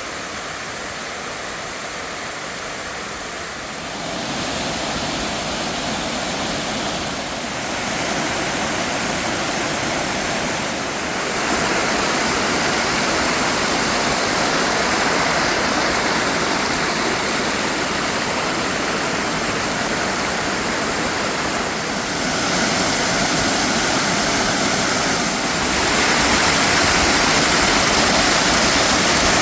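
Bozugataki waterfall: a steady rush of falling water, growing louder in several steps.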